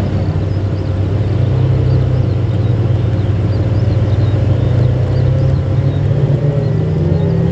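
Ferrari F12 Berlinetta's V12, fitted with straight-piped exhausts, running steadily at low revs. Its pitch steps up slightly about a second and a half in, then holds.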